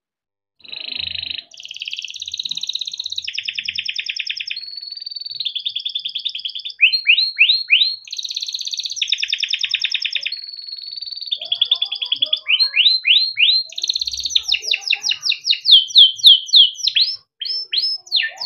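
Domestic canary singing a long, unbroken song that starts about a second in, moving every second or so from one fast rolling trill to the next, with runs of quick downward-sweeping chirps as the loudest notes.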